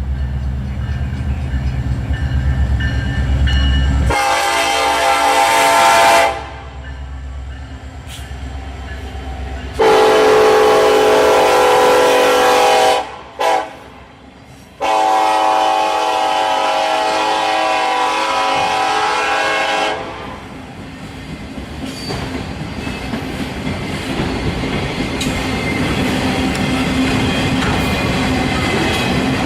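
Freight train's diesel locomotives running with a low rumble, then the locomotive horn sounding the grade-crossing signal: two long blasts, a short one and a final long one. After the horn stops, the train's cars roll past with steady wheel-on-rail clatter.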